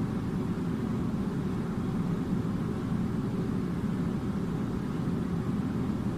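A steady, deep rumble that holds even throughout, with no distinct beats, tones or knocks.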